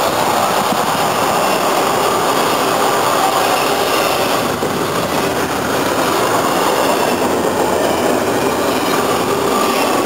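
A train rolling past close by: a loud, steady rush of wheels running on the rails.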